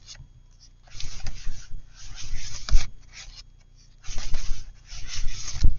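Paper and cardstock sliding and rubbing as a journal waterfall is pulled and pushed, its panels flipping over. There are three passes, each ending in a soft tap.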